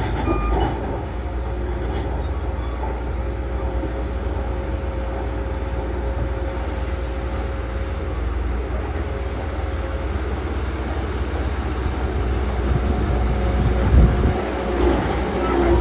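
Heavy diesel earthmoving machinery, such as a Shantui bulldozer, running steadily with a low rumble and a steady whine. A reversing alarm beeps briefly at the very start, and a single heavy knock comes about 14 seconds in.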